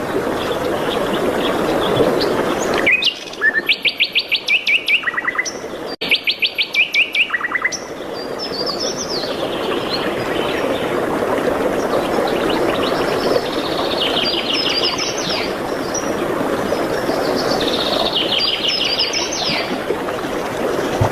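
Songbirds singing in rapid trills of repeated high notes, several phrases in a row, over a steady rushing background of forest ambience. The background noise drops out abruptly for a few seconds early on, leaving the trills on their own.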